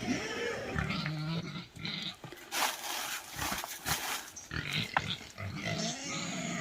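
An animal making a series of short pitched calls that slide up and down, with sharp clicks or knocks between them.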